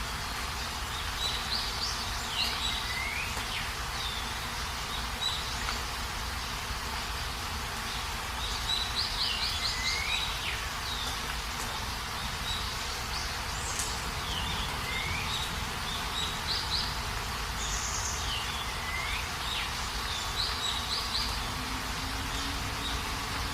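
Steady rain falling, with a bird calling over it every few seconds: a quick run of high notes and a short falling whistle.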